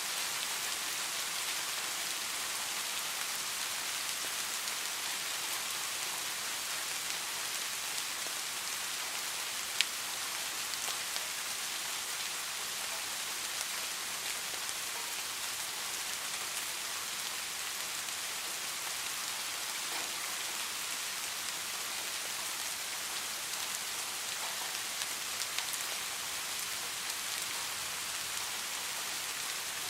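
Steady rain falling on a surface, an even hiss, with a few sharp clicks, the loudest about ten seconds in.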